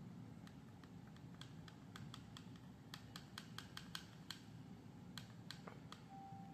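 Faint clicks of a Daikin wired remote controller's buttons being pressed over and over to step an address setting, with a quick run of presses in the middle.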